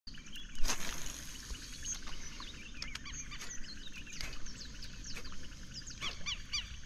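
Birds chirping in a marsh: many short, quick rising and falling notes scattered through, with a steady outdoor background and a single knock about half a second in.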